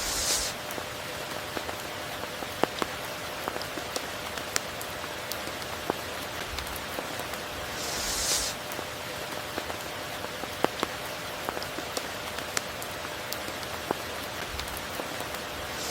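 Steady tropical rain falling, with scattered individual drops ticking sharply and a brief, brighter hissing swell near the start and again about eight seconds in.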